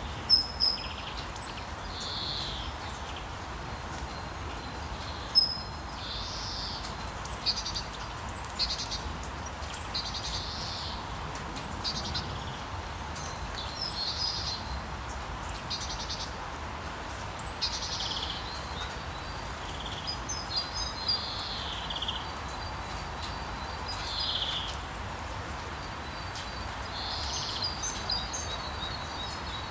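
Rainforest ambience: a steady hiss of rain under bird calls, short chirps and whistles every second or so. A rapid trill comes in twice in the second half.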